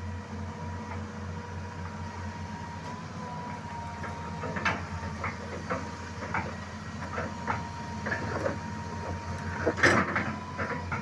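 Engine running steadily with a low throb and a faint steady whine, with scattered metallic clanks and knocks, the loudest near the end.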